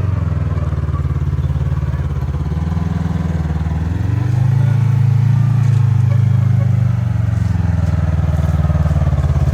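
Side-by-side UTV engine running under throttle as it works through an off-road ditch obstacle. It rises in pitch and loudness about four seconds in and eases back a few seconds later.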